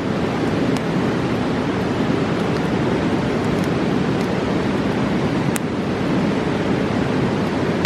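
A fast mountain river rushing with a steady, loud roar, with a few sharp pops from a campfire, the clearest about five and a half seconds in.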